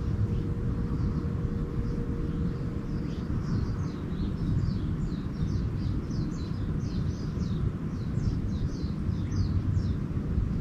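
Small songbirds twittering in quick, short falling chirps, thickening from about three seconds in, over a steady low rumble.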